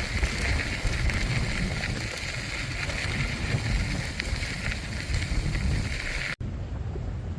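Wind rumbling on the microphone of a moving bicycle, with a steady hiss over it. About six seconds in the sound cuts out for an instant and comes back duller, without the hiss.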